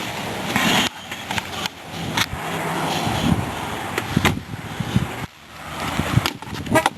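A string of sharp clicks and knocks over a rustling, scraping noise: handling sounds around a car, such as keys, door and steps.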